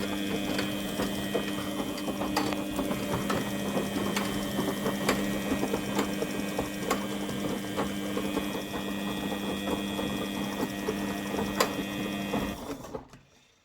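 Front-loading automatic washing machine running its wash cycle with the covers off: a steady hum with a scatter of light ticks from the motor, belt and drum. The sound falls away to near silence about thirteen seconds in.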